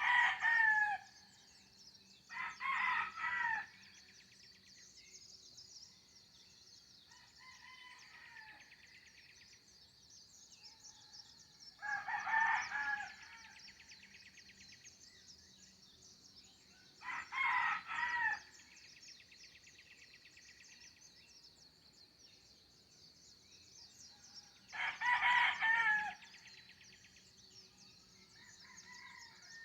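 Roosters crowing, five loud crows about a second long each, with fainter crows in between. A steady high-pitched drone runs under them.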